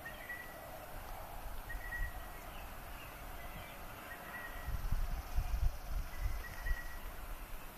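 Birds chirping in short, repeated calls, with wind buffeting the microphone in low rumbling gusts from about four and a half seconds in.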